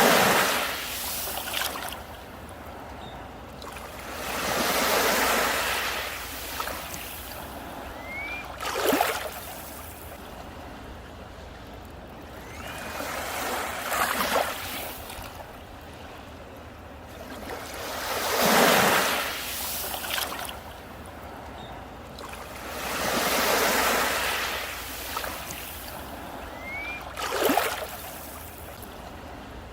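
Sea waves breaking on a beach, one about every four to five seconds, each swelling into a wash of surf and fading away; some break with a sharper crack at the peak.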